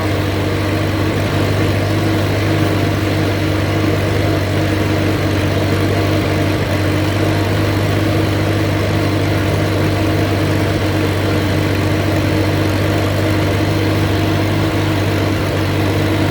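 Allis-Chalmers C tractor's four-cylinder engine running steadily under load while mowing, its Woods mower deck blades engaged.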